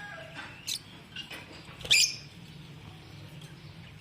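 A bird giving two short, shrill squeaks, the second about two seconds in and the loudest, with a few faint clicks between them.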